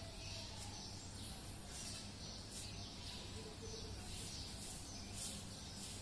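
Outdoor ambience with small birds chirping on and off over a faint steady low hum.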